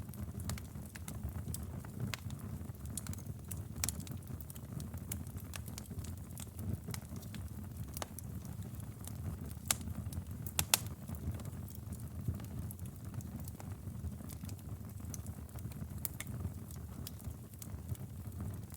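Wood fire burning in a fireplace: a steady low rumble of flames with scattered crackles and pops from the burning logs, and two sharper pops about ten seconds in.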